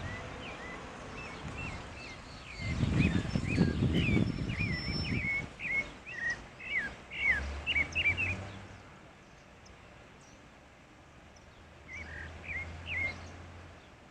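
Pale-breasted thrush singing a quick series of short, varied notes for about eight seconds, then a few more notes after a pause near the end. A low rumbling noise sits under the song a few seconds in.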